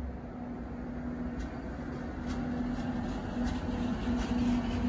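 Metre-gauge electric train running: a low rumble under a humming tone that breaks into pulses in the second half and grows slightly louder, with a few faint clicks.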